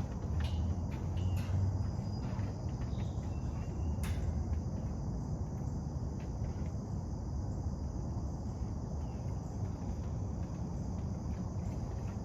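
Crickets chirping steadily over a loud low rumble, with a few scattered clicks, the sharpest about four seconds in.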